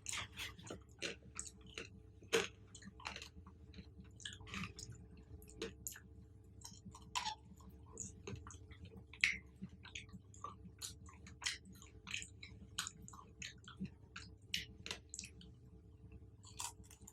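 A person chewing fruit close to the microphone: a dense, irregular run of short sharp clicks and smacks of the mouth and food, with a louder bite about two seconds in and another about nine seconds in.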